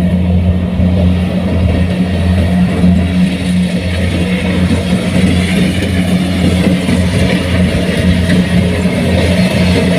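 Kubota combine harvester's engine running steadily under working load, a loud, even drone.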